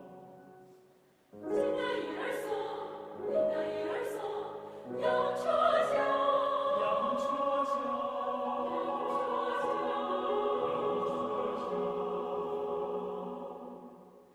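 A choir singing a Hubei folk song. A chord dies away, the voices come back in with short phrases about a second in, then hold a long chord that fades out near the end.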